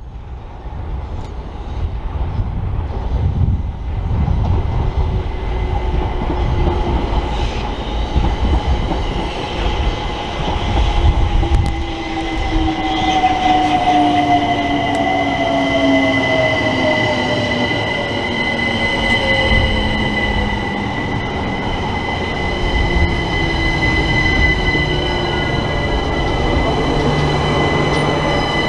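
Electric multiple-unit train running through the station, low rumble under a traction-motor whine that falls steadily in pitch as it slows. A high steady squeal sits over it.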